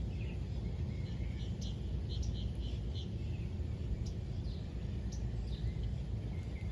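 Birds chirping in short, repeated calls over a steady low rumble of outdoor noise.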